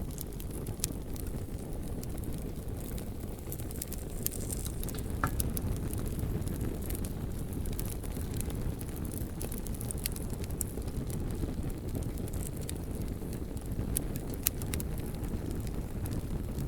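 Wood campfire crackling, with frequent sharp pops and snaps at irregular intervals over a steady low rumble.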